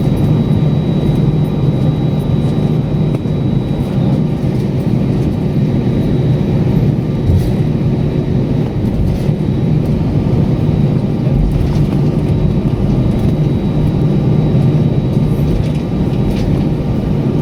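Steady low rumble of a vehicle in motion, with a faint high whine that fades about four seconds in.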